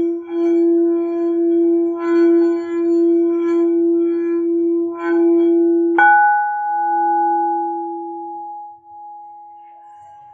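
Singing bowl sounding a steady low hum with a slow, pulsing wobble. About six seconds in, a higher-pitched bowl is struck once and rings on, slowly fading as the low hum dies away.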